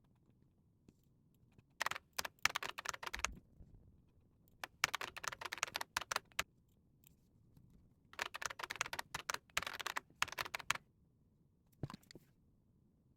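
Typing on a computer keyboard: three runs of quick key clicks with short pauses between them, then a few last taps near the end.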